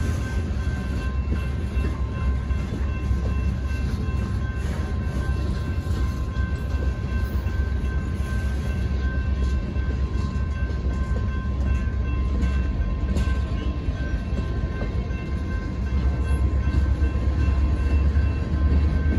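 Freight cars rolling past with a steady low rumble of wheels on rail, growing louder near the end. Thin, steady high-pitched tones sit above the rumble.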